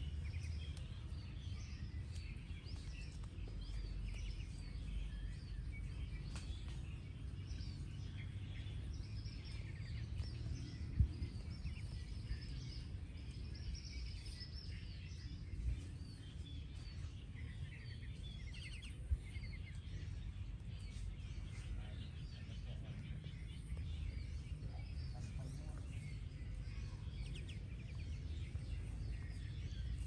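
Outdoor ambience with many short, high bird chirps scattered throughout over a low, steady rumble, and a few faint clicks around the middle.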